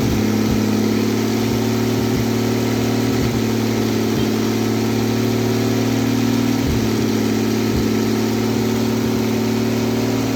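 Toyota 2JZ-GTE inline-six in a Lexus IS300 idling steadily on its first start-up after the engine swap, before it has been tuned.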